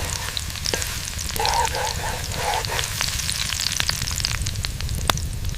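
Food frying and sizzling, a steady hiss with scattered crackling pops.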